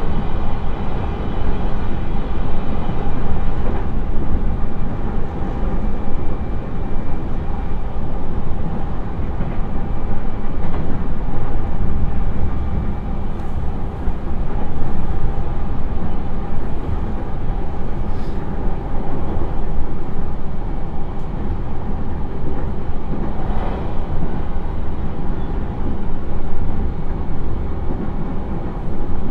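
E129 series electric multiple unit running at about 75 km/h, heard from inside the passenger car as a steady wheel-on-rail rumble. This stretch of rail has not been ground, so the roar of ground rail is absent.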